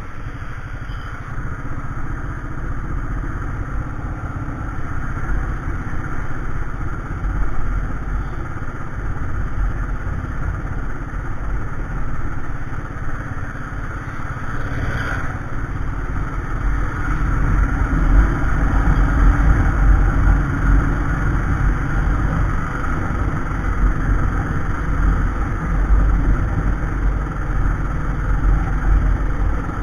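Royal Enfield Classic 350 single-cylinder motorcycle running under way, its engine and the rush of riding air heard steadily through a helmet- or bike-mounted camera microphone.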